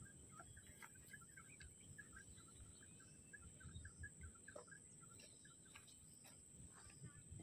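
Near silence outdoors: faint bird chirps, a quick run of short notes through the first half, over a steady high-pitched whine.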